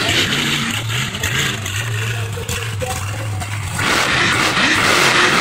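Monster truck engine running and revving, with a wide noisy roar that grows louder about four seconds in.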